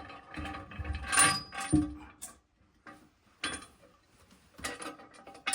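Porcelain toilet tank being set down on the bowl and shifted into place: a series of irregular knocks, clunks and scrapes, some with a short ring, the loudest about a second and a half in.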